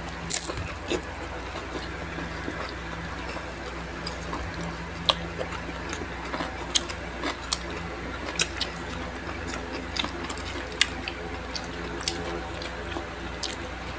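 Close-up chewing of crisp fried food, crispy lumpia and crispy chicken skin, heard as irregular sharp crunches and mouth clicks over a steady low hum.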